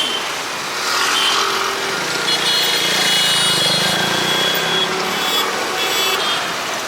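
Busy city road traffic: motor vehicles passing close by with engine noise that swells in the middle, and a vehicle horn held for a couple of seconds starting about two seconds in.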